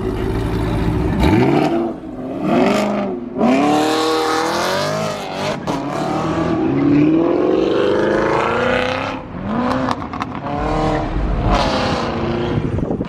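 Cars accelerating past one after another, their engines revving with the pitch climbing on each pull, one long rise near the middle.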